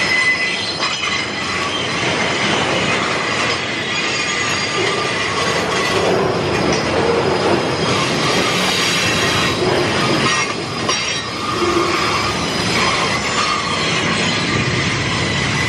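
Flatcars of a CSX work train loaded with long steel rail rolling past close by: a steady loud rumble of wheels on the track, with thin high squealing tones from the wheels and an occasional click.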